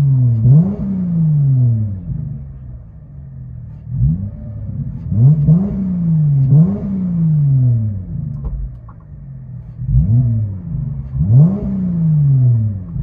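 Dodge Challenger 3.6L V6 with Vibrant resonators in the mid-pipes and the rear mufflers deleted, heard from inside the cabin. The engine is revved in three pairs of quick blips, each one climbing fast and sinking slowly back to idle.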